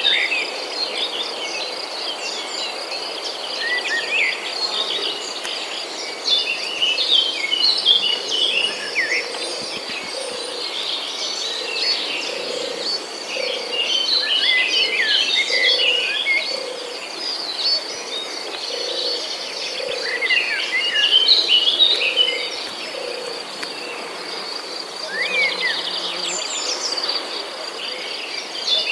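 A chorus of songbirds chirping and singing in quick bursts over a steady, high insect trill. A soft low note repeats about twice a second through the middle of the stretch.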